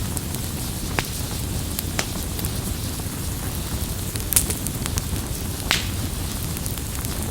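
Campfire burning with a steady low rush, broken by a few sharp crackles and pops from the burning wood, the loudest a little past the middle.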